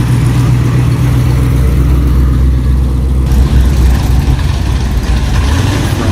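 A car engine idling close by with a loud, steady low rumble.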